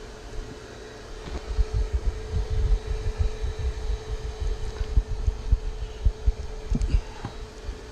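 Steady hum of a honey bee colony, with irregular low thumps and knocks as honeycomb is cut and pulled out of the roof cavity.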